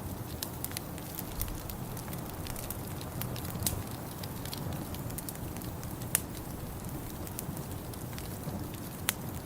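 Wood fire in a fireplace crackling, with irregular sharp pops, the loudest about six seconds in, over a steady low rumble.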